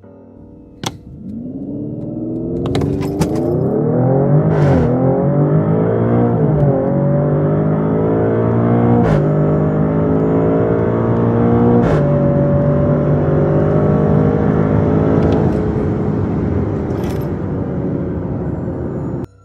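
Maserati Grecale Trofeo's 3.0-litre twin-turbo V6 accelerating hard: the engine note climbs in pitch and drops back at each upshift, about five, seven, nine and twelve seconds in. It then holds nearly steady at high speed before cutting off abruptly.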